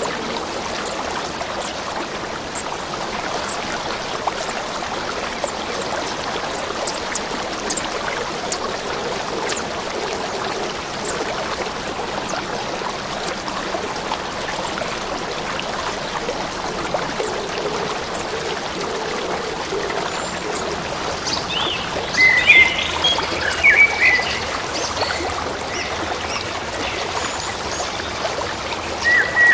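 A stream of running water babbling steadily. Birds chirp in short bursts about three-quarters of the way in and again at the very end.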